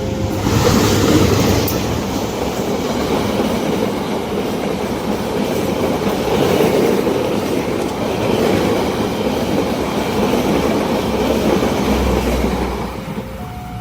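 A train passing close by on the rails: a steady rumble and wheel noise with some clickety-clack, which dies away about 13 seconds in. Near the end, the alternating two-note warning tones of a level-crossing alarm come back through.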